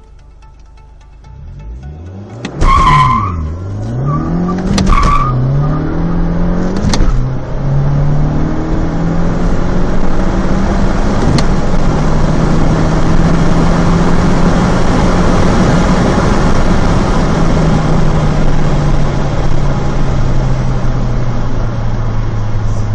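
Remapped Alfa Romeo MiTo 1.4 T-Jet turbo four-cylinder with a Supersprint exhaust accelerating hard, the engine note climbing and dropping at quick gear changes about three, five and seven seconds in, each marked by a sharp burst of noise. It then pulls steadily in a higher gear, the note easing down near the end.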